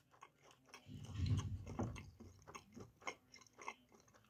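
A person chewing a mouthful of crisp, air-fried pancake-wrapped sausage with the mouth closed, close to the microphone: faint soft crunching and wet mouth clicks, strongest about a second in, then sparse small clicks.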